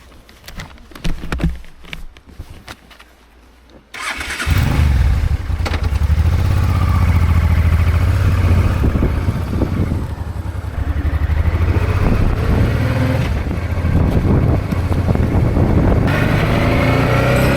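A few light clicks and knocks. Then, about four seconds in, the Honda Deauville 650's V-twin engine comes in loudly with a heavy low rumble as the motorcycle rides off, and the revs climb near the end.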